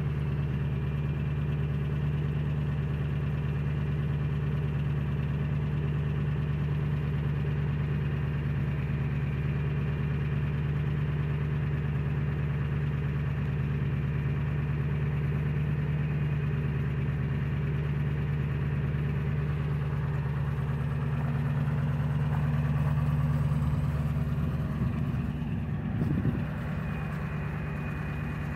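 Ford E-350 van's 7.3 L Power Stroke turbo-diesel V8 idling steadily while warming up after a cold start at −8 °C. Near the end the sound wavers briefly with a short knock, then settles slightly quieter.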